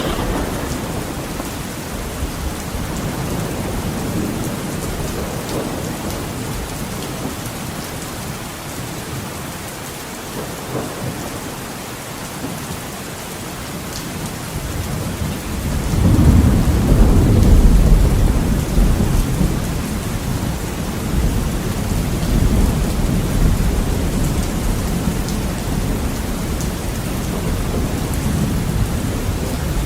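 Heavy rain falling steadily against a window, with a deep roll of thunder that swells about halfway through and slowly rumbles away.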